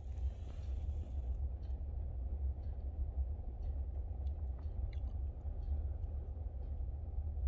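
Wood fire burning in a fireplace, crackling with scattered irregular sharp pops over a steady low rumble.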